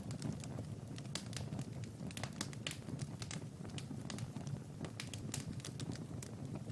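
Wood fire crackling in a fireplace: frequent, irregular sharp pops and snaps over a low, steady rumble of the flames.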